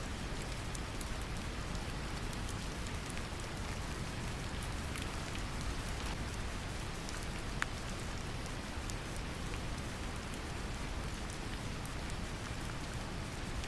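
Steady brown noise, a deep, even rumble, mixed with gentle rain whose drops tick lightly and at random over it, one a little sharper about halfway through.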